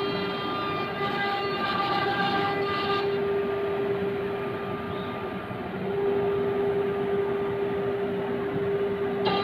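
Three-spindle CNC router running while it carves a wooden door: the spindles give a steady high whine with several overtones over cutting noise, brighter in the first few seconds and again near the end.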